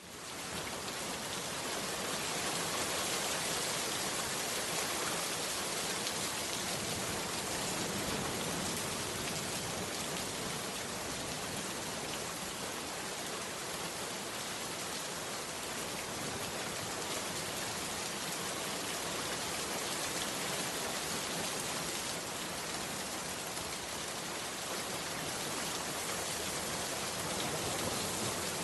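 Heavy rain falling steadily, a dense even hiss of countless drops; it fades up from silence at the start.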